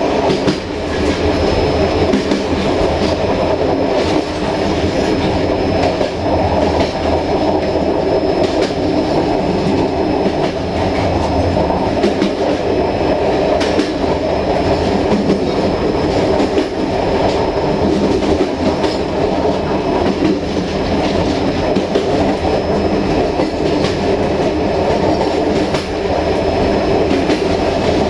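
Passenger train rolling along the line at speed: a steady rumble of wheels on rail with the clickety-clack of rail joints. A faint thin high tone runs through the first half.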